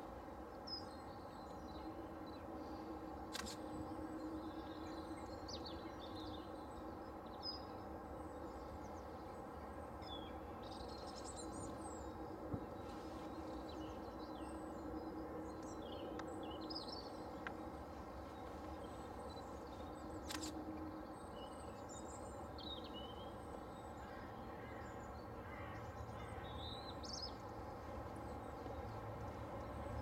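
Wild birds chirping and calling faintly at scattered intervals over a steady background noise, with two sharp clicks, one a few seconds in and one about two-thirds of the way through.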